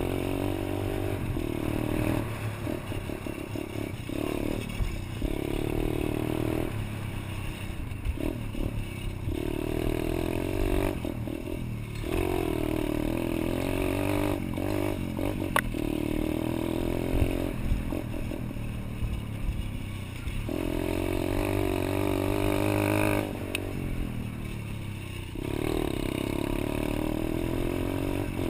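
Pit bike's small single-cylinder engine running, repeatedly revving up and easing off, with a sharp click about halfway through.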